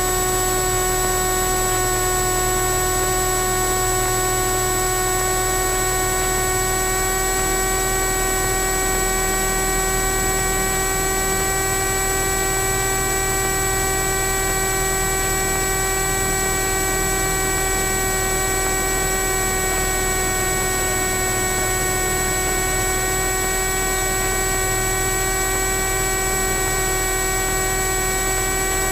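Steady electrical whine recorded into a GoPro from a Garmin G1000-equipped Cessna 172's audio: a buzzing stack of constant tones over a low hum and hiss, unchanging throughout. It is interference that appears with the G1000 Cessna 172 but not with a classic C172 or a PA-28.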